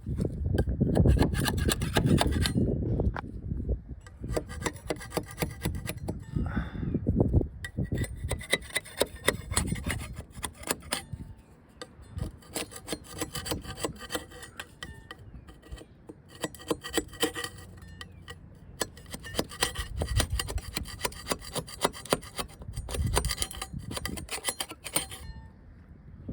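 Sanding a boat hull: rapid, repeated rubbing and scraping strokes that go on with short breaks.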